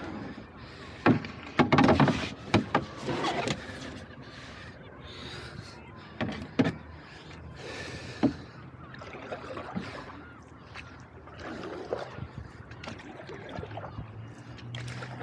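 A canoe being launched and boarded: the hull knocks loudly several times over a couple of seconds, then lighter bumps, scrapes and shuffling as the paddler settles in.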